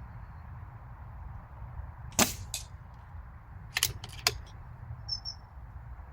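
A BSA R12 PCP air rifle fires once about two seconds in, a sharp crack followed by a fainter crack about a third of a second later. A quick cluster of three sharp clicks comes about four seconds in, over a steady low rumble.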